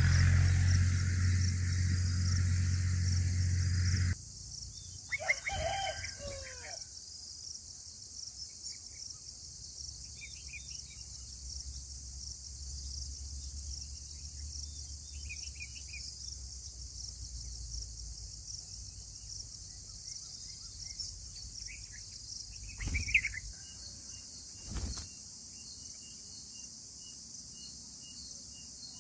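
A loud low hum that cuts off suddenly about four seconds in. After it, a steady high insect chorus with a pulsing pattern, a bird call at about six seconds, scattered short bird chirps, and a brief knock near the end.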